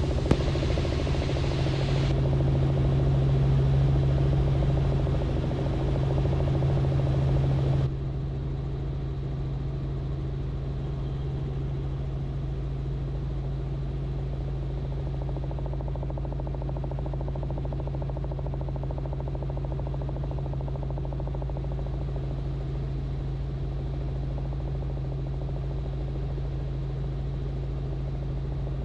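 Robinson R44 helicopter in flight: a steady drone of engine and rotor. About eight seconds in it suddenly drops in level and turns duller, then carries on unchanged.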